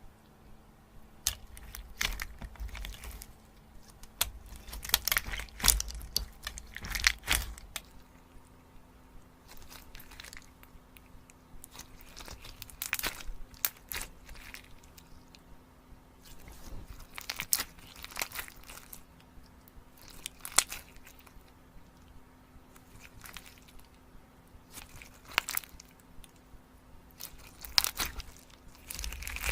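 Chocolate being bitten and chewed close to the microphone: irregular crisp snaps and crunches. A faint steady hum runs underneath.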